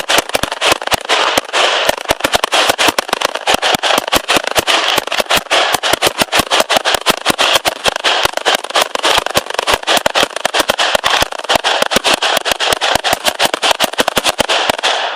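Fireworks going off: a dense, rapid string of sharp bangs, several a second, over a continuous crackling hiss.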